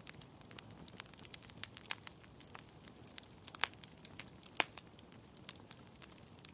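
Wood fire in a fireplace crackling: burning logs give irregular sharp pops and snaps over a soft steady hiss, with a few louder pops about two, three and a half and four and a half seconds in.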